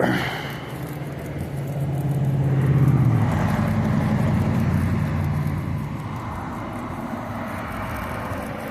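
A motor vehicle passing by: a low engine hum and road noise that build to their loudest about three seconds in, then slowly fade.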